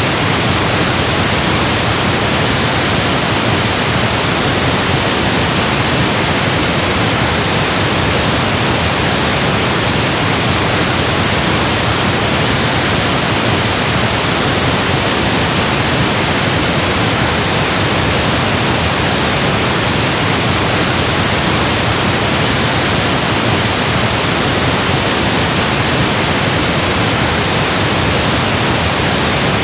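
Steady electronically generated pink noise: an even hiss across all pitches, unchanging throughout.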